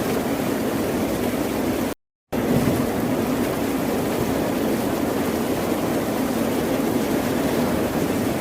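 Steady ocean surf noise, a continuous even rush with no separate wave breaks. About two seconds in it cuts out completely for a fraction of a second, then resumes.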